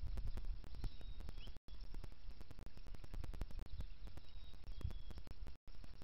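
Outdoor feeder-yard ambience: a steady low rumble with scattered crackling clicks, and a few faint, short, high bird call notes, one of them falling. The sound cuts out completely for an instant twice.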